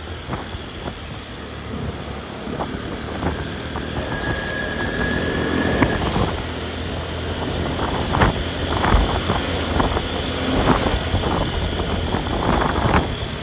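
A motor vehicle's engine running on the move, with wind buffeting the microphone and scattered knocks and rattles.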